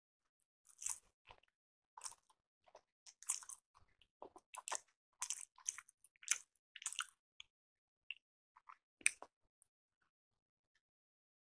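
A person chewing a soft rice appe (paniyaram) dipped in sauce: irregular bites and chews for about seven seconds, then only a few scattered chewing sounds.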